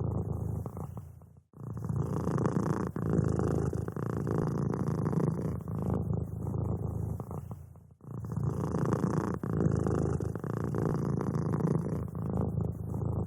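Domestic cat purring in a steady low rumble, broken by short pauses about a second and a half in and again about eight seconds in.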